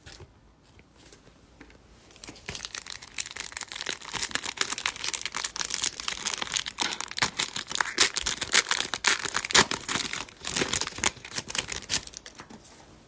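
Trading-card pack wrapper being torn open and crinkled by hand: dense, irregular crackling that starts about two seconds in and stops near the end.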